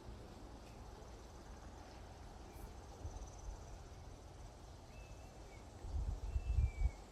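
Quiet outdoor ambience with faint insect chirring and a few short, downward-gliding high chirps. Near the end a louder low rumbling burst lasts about a second.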